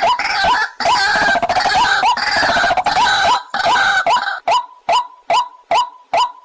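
White-breasted waterhen calling: a dense run of overlapping repeated call notes, which about four seconds in gives way to a steady series of single notes, about three a second.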